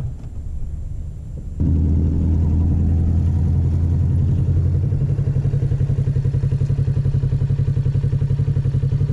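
Kawasaki Ninja 650 parallel-twin engine running at a steady pitch with an even pulse. It is quieter at first and steps up suddenly about a second and a half in.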